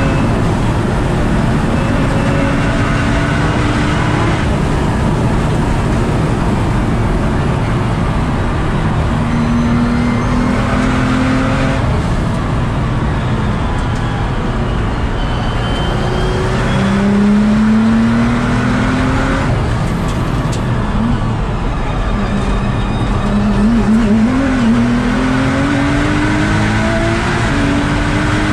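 Nissan GT-R R35's twin-turbo V6 pulling hard, heard from the passenger seat: its pitch climbs through each gear and drops at the shift, several times over, over steady road and tyre noise.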